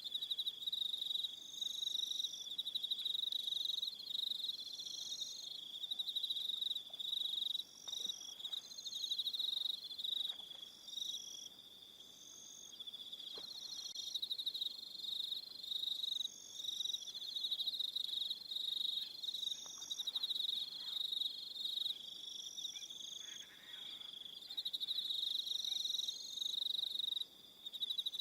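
Crickets chirping in a dense evening chorus: a steady, high-pitched trill, with faster, higher chirps starting and stopping over it every second or so.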